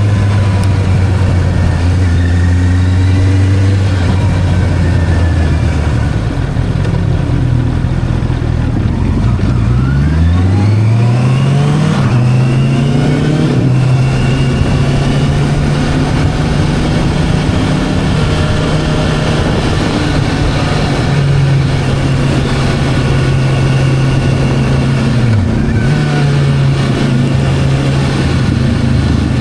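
Motorcycle engine running steadily, then revving up sharply about ten seconds in and holding at a higher engine speed, with a brief drop and recovery near the end.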